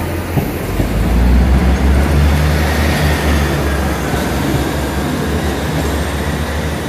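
Diesel multiple unit's engines running as the train moves along the platform: a low, steady drone that swells about a second in, with rumble and rail noise echoing under the station's arched roof.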